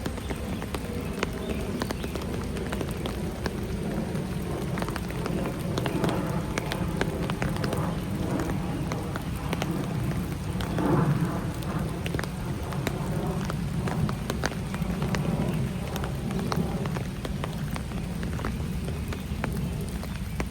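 Rain falling in a park, an even hiss with many small sharp drop ticks, over a steady low rumble, swelling briefly louder about halfway through.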